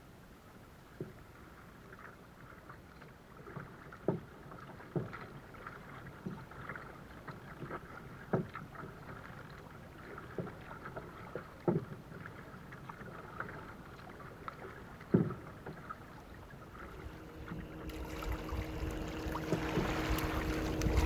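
Kayak paddling: the paddle dips into the lake every second or two with a splash and a soft knock, and water trickles off the blade in between. Near the end a louder rushing noise builds, like wind on the microphone.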